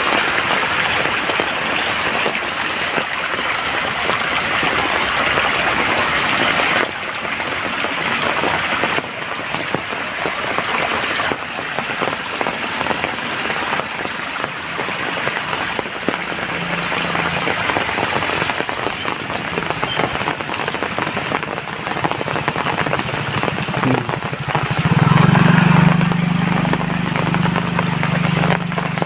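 Steady heavy rain, with a dense patter of drops. About two-thirds of the way in, a low motor hum comes up under the rain and is loudest near the end: a motor vehicle approaching.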